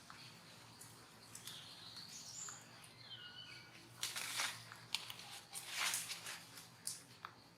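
Animal sounds: a few short high-pitched calls, some stepping down in pitch, then two louder rustling, hissing bursts about four and six seconds in, with scattered small clicks.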